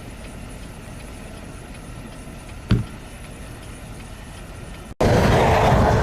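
Steady low vehicle and road noise with a single sharp knock a little under three seconds in. Near the end it cuts suddenly to much louder, rougher noise.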